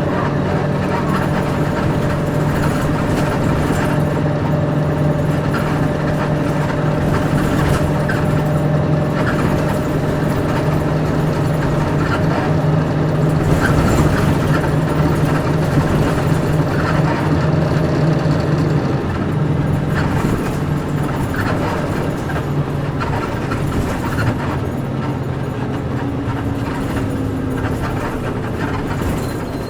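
Interior running sound of a Nissan Diesel KC-UA460LSN one-step bus with a PG6 engine, pulling steadily under load. The engine note drops away about two-thirds of the way through, as the throttle eases off, and road noise carries on.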